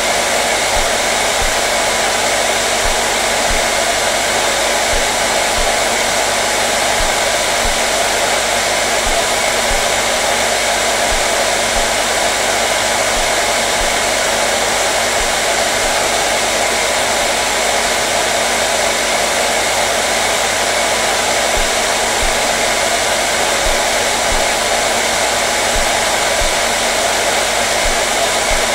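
Hair dryer running steadily: a constant, loud whooshing blow of air with a faint motor hum underneath, unchanging throughout.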